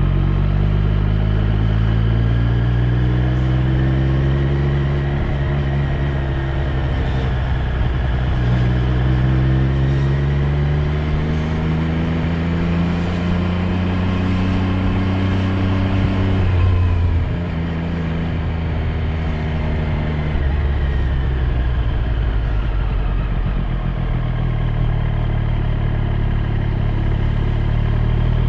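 Triumph Street Triple 765 R's inline three-cylinder engine under way, climbing in pitch as it accelerates. The pitch dips at a gear change about eight seconds in, rises again, then drops sharply a little past halfway as the throttle closes. It runs at a lower, steadier pitch afterwards.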